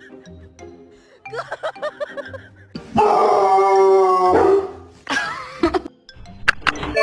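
A dog howling and whining over background music, with one long held howl about three seconds in and shorter wavering calls around it.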